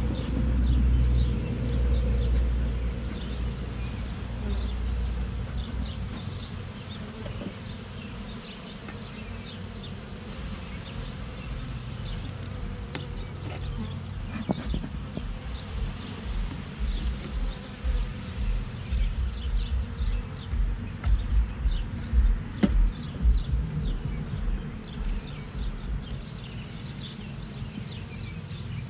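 Honeybees buzzing around an open hive, with single bees flying close past the microphone; the buzz grows louder and more uneven in the second half. A few light knocks come from the wooden hive boxes being handled.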